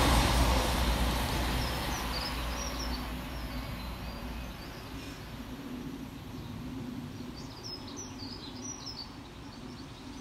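A CrossCountry Class 221 Super Voyager diesel multiple unit running away into the distance, its low rumble fading over the first four seconds or so. Small birds chirp in two short spells, one about two seconds in and another near the end.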